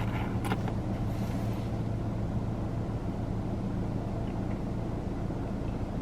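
Car engine idling: a steady low hum, with a couple of faint clicks in the first second or so.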